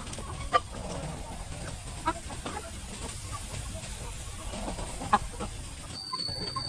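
Chickens clucking over a steady low background hum, with a few short sharp calls standing out. Near the end the background changes abruptly and a faint steady high whine begins.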